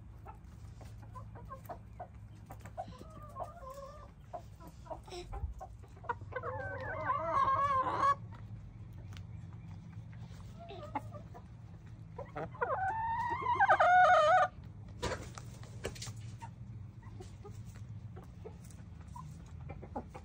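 Backyard chickens clucking, with two long, loud calls, one about six seconds in and one about twelve seconds in.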